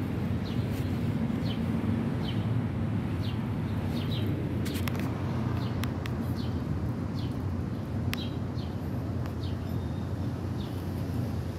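Small wild birds chirping, short high chirps coming about once a second, over a steady low rumble, with a few sharp clicks partway through.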